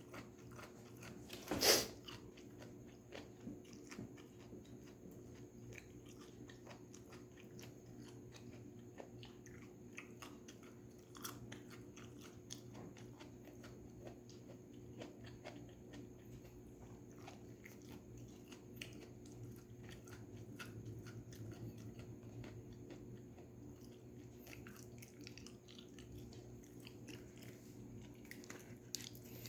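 Close-miked chewing and crunching of stir-fried vegetables, a steady run of small crisp clicks over a low hum, with one louder sharp crunch about two seconds in.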